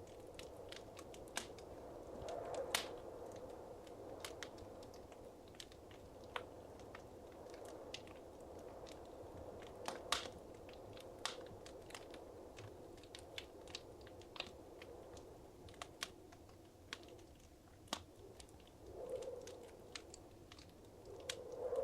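Wood fire crackling in a fireplace: irregular sharp pops and snaps over a soft, steady rush of flame that swells briefly a few times.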